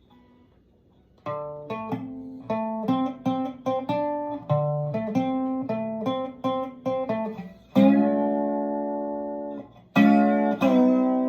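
Guitar playing: about a second of near silence, then a run of single plucked notes, then two full chords struck about two seconds apart and left ringing.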